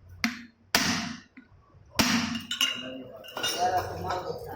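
Metal engine parts and tools knocking and clinking against each other while a motorcycle engine is being assembled: several sharp knocks in the first two seconds, then lighter clatter.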